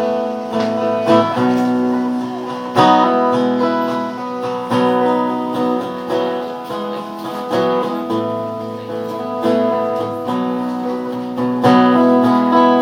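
Acoustic guitar strumming chords in a steady rhythm, playing the instrumental intro of a song.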